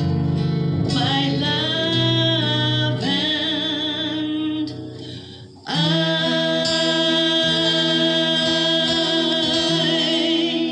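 Singer holding long, wavering notes over acoustic guitar at the close of a folk song; the sound dips briefly about halfway, then one long held note follows.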